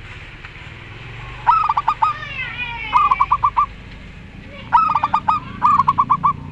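Zebra doves (perkutut) calling back and forth: four phrases of rapid staccato cooing notes, the first about one and a half seconds in and the last near the end. Between the first two phrases comes a higher, falling whistled note.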